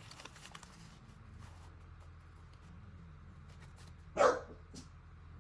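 A dog barks once, sharply, about four seconds in, over a low steady hum.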